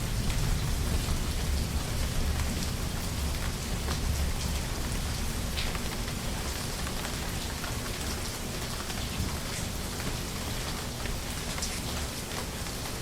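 Steady rain falling on a surface, an even hiss dotted with the ticks of individual drops. A low rumble underneath is strongest in the first few seconds, then eases off.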